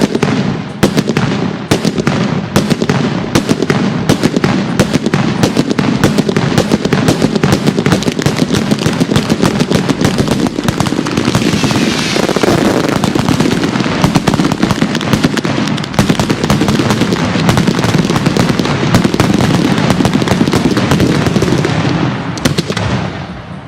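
Fireworks going off in a rapid, continuous barrage of cracks and bangs, which dies away near the end.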